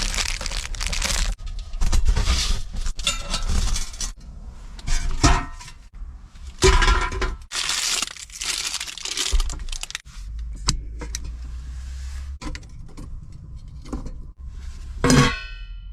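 Irregular handling noises as a charcoal-burning heating stove is readied for lighting: rustling and tearing of packaging and clinks of charcoal and metal, coming in uneven bursts.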